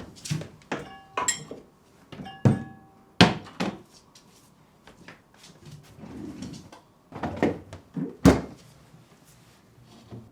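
Dishes and cupboard doors clattering: a series of knocks and short clinks, a few of them ringing briefly.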